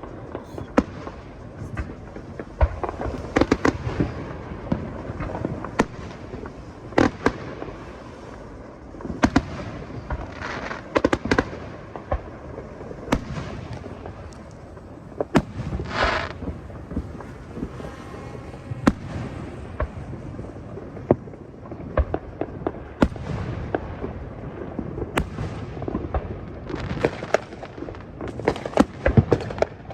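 Fireworks display: a run of sharp bangs and pops from bursting shells, irregular and often in quick clusters, with a short hissing burst about halfway through.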